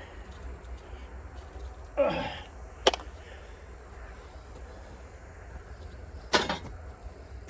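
Metal parts of a sawmill being handled: a short scrape about two seconds in, a sharp click just after it, and a louder clank near the end.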